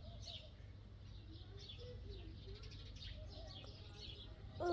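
Small birds chirping over and over in short high notes, over a steady low rumble. A short, louder pitched call comes right at the very end.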